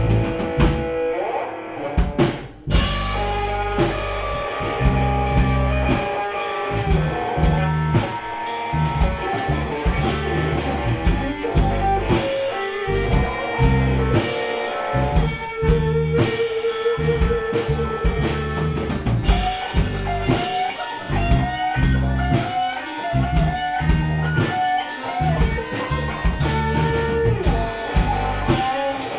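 Live gypsy rock band playing: electric guitar and drum kit over bass, with a brief stop a couple of seconds in before the full band comes back in.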